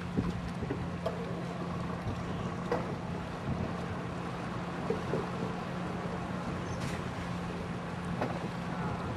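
Fishing boat's engine running with a steady low hum, with a few faint knocks over it.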